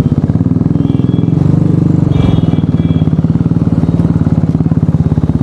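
Royal Enfield Bullet's single-cylinder engine running steadily, a rapid even thump that holds the same pace throughout.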